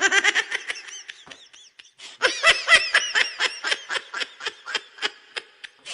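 Laughter sound effect: a burst of quick, high-pitched laughing, a short break about a second and a half in, then a longer run of rapid laughing.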